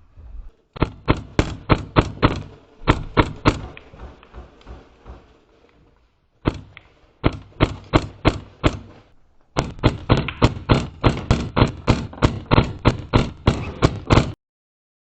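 Airsoft gun fired in quick repeated shots, about four or five a second, in several strings with short pauses between them; the shooting cuts off suddenly near the end.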